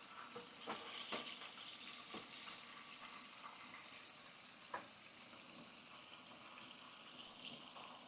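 Faint steady sizzling from a pan of fish cooking on the stove, with a few light clicks and knocks of utensils.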